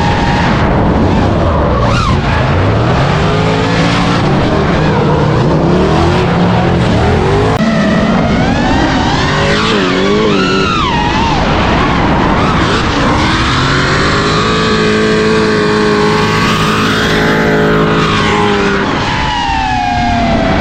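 Car engines revving up and down hard, with tyres squealing in long wavering screeches.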